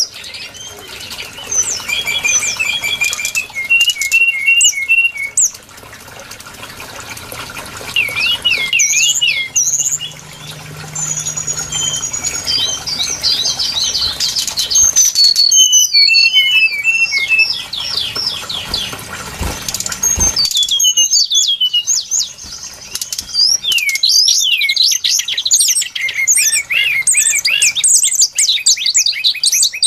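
Brown-chested jungle flycatcher song played as a lure call: fast, varied whistled phrases and chattering trills that run on almost without pause, broken only by brief gaps.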